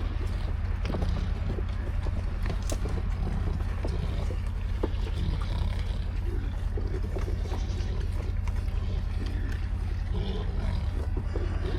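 Pigs grunting and eating at a feed trough, with scattered clicks and knocks over a steady low rumble.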